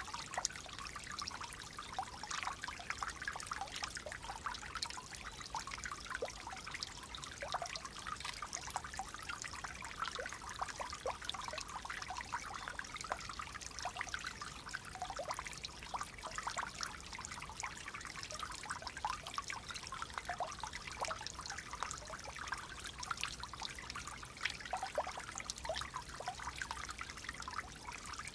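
Clear water flowing and trickling in a shallow stream, a steady babble of small splashes and gurgles.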